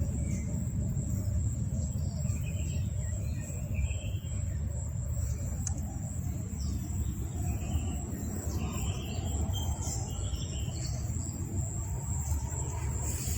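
Outdoor ambience with a steady low rumble and insects trilling in one steady high tone, with a few faint chirps.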